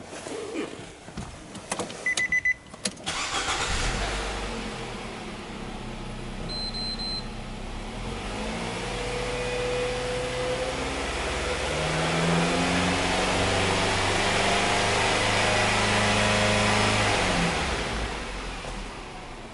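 Nissan Serena Highway Star 4WD minivan: a few clicks and a short electronic beep, then the engine starts about three seconds in and idles. It is then revved up gradually, held at higher revs for several seconds, and drops back to idle near the end.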